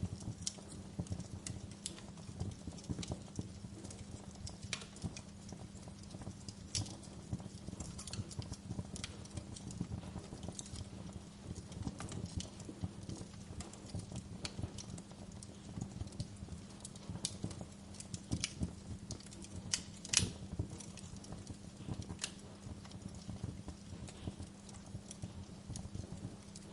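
Wood fire crackling, with irregular sharp pops and snaps (the loudest about twenty seconds in) over a steady soft hiss of gentle rain.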